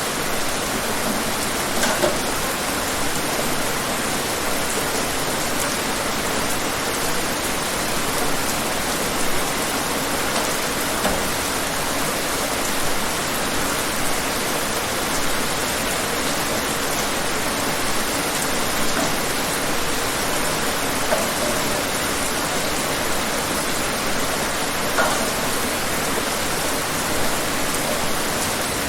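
Steady rain falling and pattering on surfaces, with a few louder individual drops now and then.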